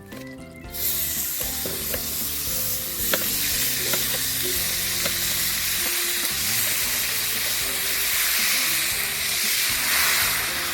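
Pieces of squid and giant squid dropped into hot oil in a frying pan: a loud sizzle starts about a second in and carries on steadily while they are stirred, with a few sharp clicks of the utensil against the pan.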